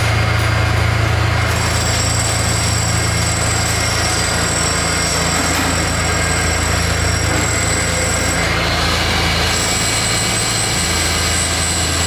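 Steady, loud factory machinery noise: a constant low hum under a few high-pitched whines, one of which drops out briefly and comes back near the end.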